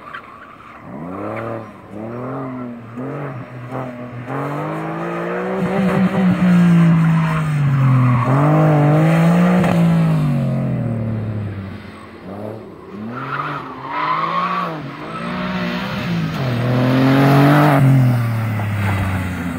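Porsche 996 Carrera 4S flat-six engine revving hard through an autocross course, its pitch rising and falling over and over as the driver accelerates between cones and lifts for turns. Tyre squeal comes in at times in the corners.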